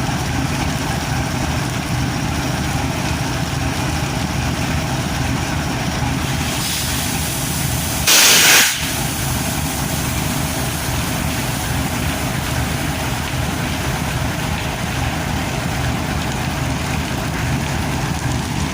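Diesel locomotive engine idling steadily in heavy rain, with one loud, short hiss about eight seconds in.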